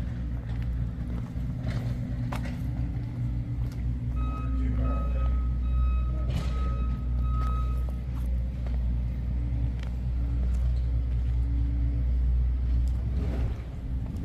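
Vehicle engine running steadily with a low rumble. From about four to eight seconds in, a reversing alarm beeps in a regular series of short high tones, with scattered knocks.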